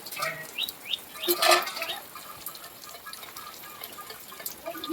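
Heavy rain falling and dripping steadily. A couple of short falling bird chirps come under a second in, and a brief louder rush of water about a second and a half in.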